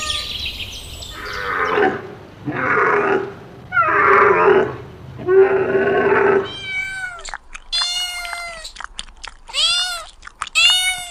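Four long, rough animal cries, then about a second later a run of short, high-pitched cat meows that rise and fall in pitch, coming quickly one after another.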